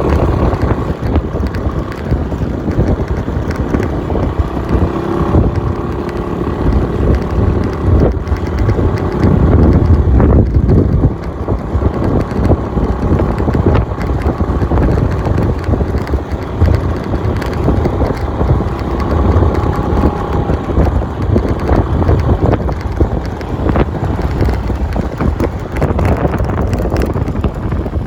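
Wind buffeting the microphone, with a vehicle engine running steadily underneath.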